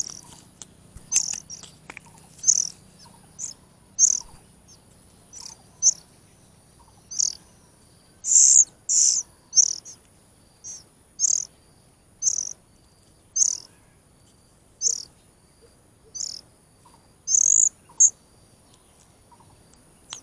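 Oriental magpie-robin nestlings giving short, high-pitched begging chirps, about one or two a second, while being hand-fed: a sign the chicks are still hungry.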